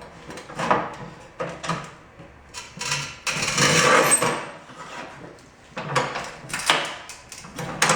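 Rubi TS 50 manual tile snap cutter scoring a tile: a long scratchy scrape as the carriage's scoring wheel is pushed across, with sharp clicks and knocks from the carriage and handle. The cutter is worn out.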